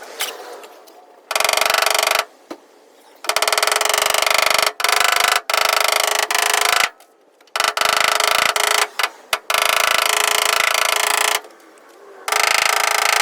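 A power tool running in about five bursts of one to four seconds each, a fast buzzing rattle that switches on and off abruptly, with short quiet gaps between.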